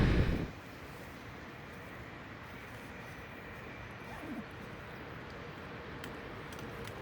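Loud rushing noise cuts off about half a second in, leaving a faint steady outdoor background with a thin hum, and one brief faint rising call about four seconds in.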